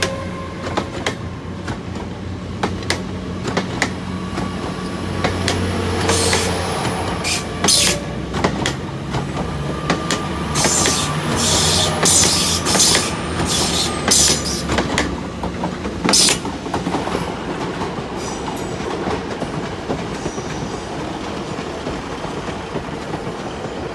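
Diesel passenger trains pulling out of the station: a low engine hum, a run of clicks over the rail joints, and short high-pitched wheel squeals between about six and sixteen seconds in.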